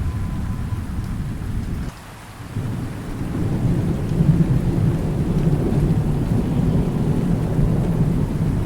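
Thunderstorm: low, continuous thunder rumble over steady rain hiss. The rumble drops away suddenly about two seconds in and builds back up within a second or so.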